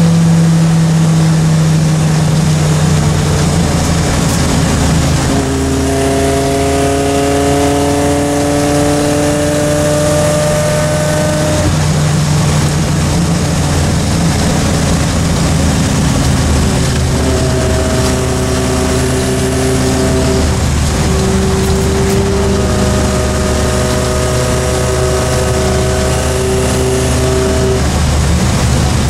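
Triumph Spitfire Mk3's four-cylinder engine heard from inside the cabin while driving, under a steady haze of road and wind noise. The engine note climbs slowly for several seconds as the car accelerates a little, then holds fairly steady.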